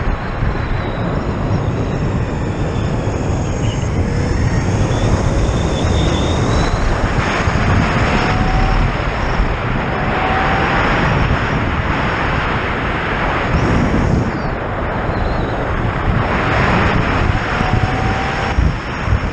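Heavy wind rush on the microphone while riding a Zero FX electric motorcycle at speed. A faint whine from the electric drive rises briefly several times as it accelerates.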